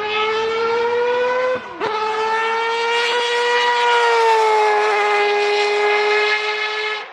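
Race car engine at high revs accelerating down the straight: the note climbs, cuts briefly for an upshift about a second and a half in, holds high and dips slightly, then cuts again for another shift near the end.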